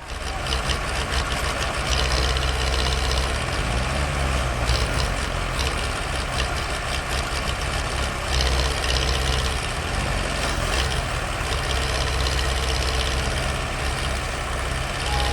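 Heavy diesel engine running steadily and revving up several times, each rise lasting about a second.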